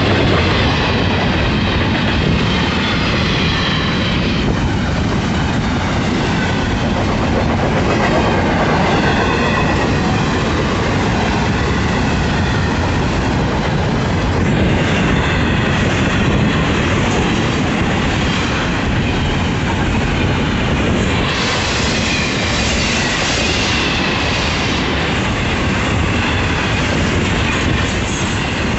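Florida East Coast Railway intermodal freight cars rolling steadily past close by, wheels clicking over the rail joints, with faint high wheel squeal now and then.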